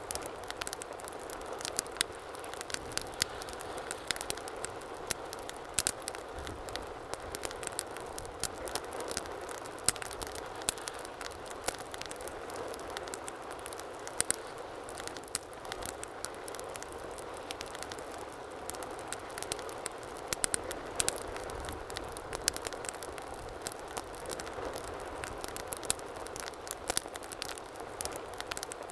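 Wood fire burning in a fireplace: a steady hiss and flutter of flames with frequent, irregular sharp crackles and pops.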